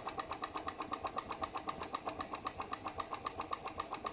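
PM Research glass Stirling engine running slowly under load as it drives a Baker fan, giving a steady, even beat of quick regular pulses. It is the sound of the engine working against the fan's load.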